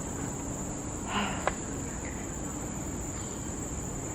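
Steady, high-pitched drone of insects in tropical forest, with a brief scuff and a sharp click about a second in.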